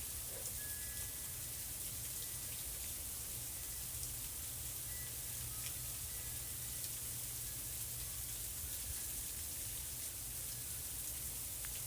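Freezing rain falling in an ice storm: a steady hiss with many small ticks of drops and ice striking surfaces, over a steady low rumble.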